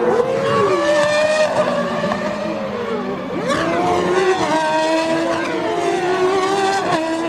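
1990 Formula One cars' V10 and V12 engines running at high revs as they race past. Engine pitch sweeps down and back up about three and a half seconds in, as a car goes by or changes gear.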